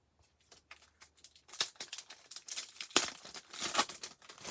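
Foil trading-card pack wrapper crinkling and tearing as cards are handled: a run of irregular crackles that gets louder about a second and a half in.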